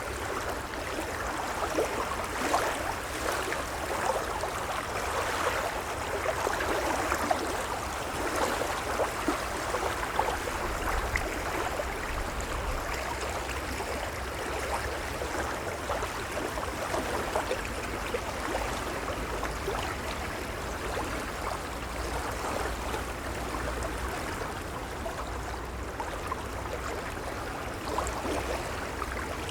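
Gentle waves washing and lapping: a steady rush of moving water with small crackling splashes, swelling slightly in the first ten seconds.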